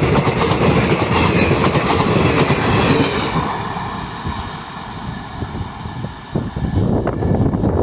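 A train passing at speed, its wheels clattering in a rapid clickety-clack over the rail joints; the clatter eases off about three seconds in as the train goes by, then the rumble comes back loudly near the end.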